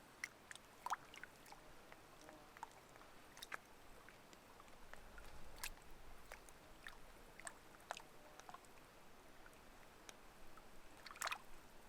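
Near silence: faint outdoor ambience with scattered, irregular soft clicks and ticks.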